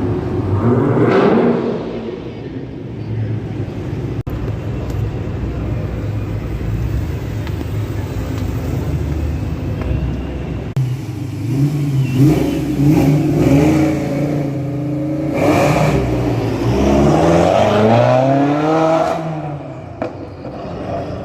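Supercar engines revving and accelerating away, several cars in turn, with the pitch rising and falling. The loudest runs come about a second in and again in the second half, where one engine climbs and then drops off.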